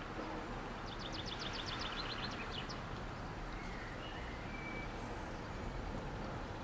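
Steady outdoor background noise, mostly low. About a second in, a bird gives a quick run of about ten high chirps lasting under two seconds, followed a little later by a few faint short whistled notes.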